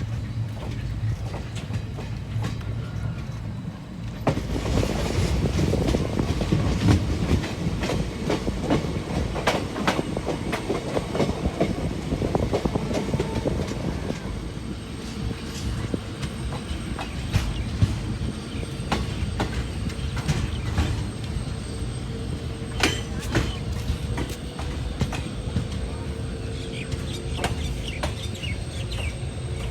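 Passenger train running on the rails: a steady rumble with the wheels clattering over rail joints, growing louder about four seconds in.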